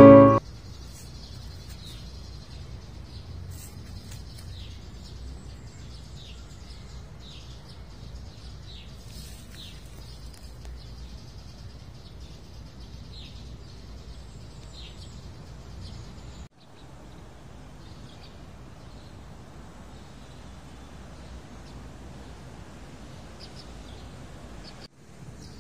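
Birds chirping in short, scattered high calls over a steady low rumble of outdoor background noise. The sound drops out briefly twice.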